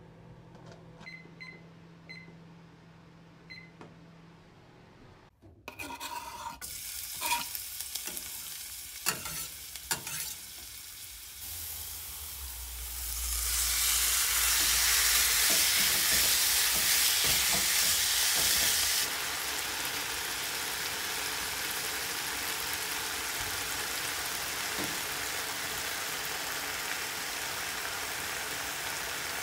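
Garlic sizzling in oil in a nonstick frying pan, with a few clicks and scrapes from the spatula. About twelve seconds in, diced raw chicken is tipped into the hot pan and the sizzle swells loud for several seconds, then settles into a steady sizzle.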